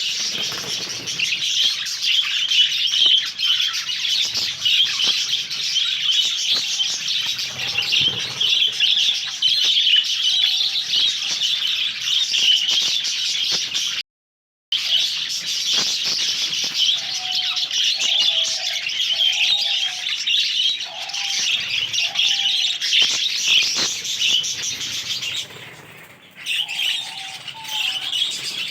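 A colony of budgerigars chattering and warbling continuously, with wings flapping now and then. The sound cuts out completely for a moment about halfway through.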